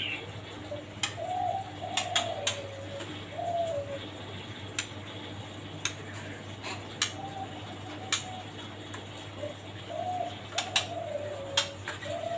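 A bird giving short, low, falling cooing calls in two groups, one a little after the start and one near the end, with sharp clicks scattered in between.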